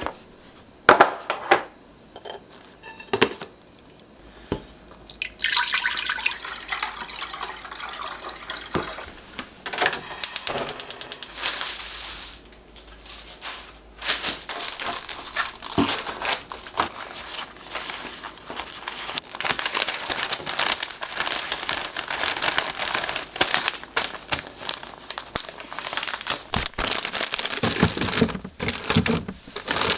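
Kitchen tap running into a sink, starting about five seconds in and running most of the way, with scattered knocks and clicks from handling things at the sink.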